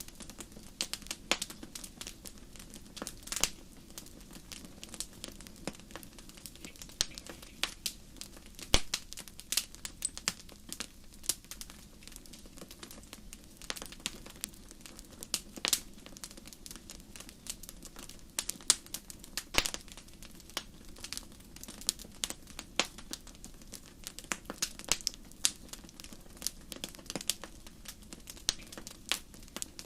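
Wood fire burning in a fireplace: a steady low hiss with frequent irregular sharp crackles and pops, some louder snaps scattered through.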